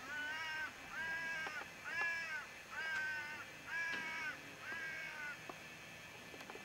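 A bird calling six times, about once a second, each call a short pitched note that rises and falls slightly.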